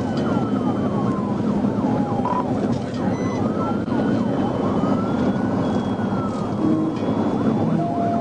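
Police car siren wailing in slow rising and falling sweeps, over a steady rumble of engine and road noise.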